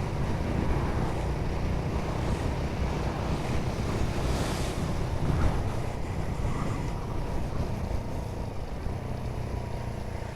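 Motorcycle riding along at a steady pace: wind rushing over the microphone over a low, even rumble of engine and road.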